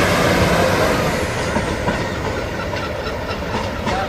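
A Class 156 Super Sprinter diesel multiple unit pulls away from the platform, its engine and wheel noise fading as it goes. In the second half, its wheels click over rail joints.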